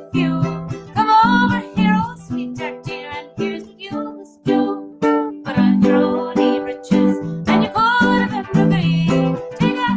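A woman singing a traditional Irish song, accompanied by a plucked string instrument.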